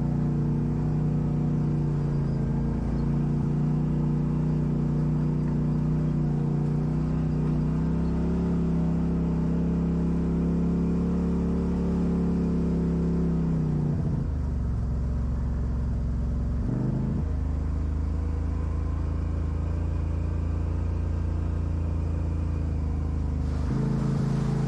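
Off-road vehicle engine running steadily. Its pitch drops to a lower, slower note about halfway through and rises again near the end as the engine speed changes.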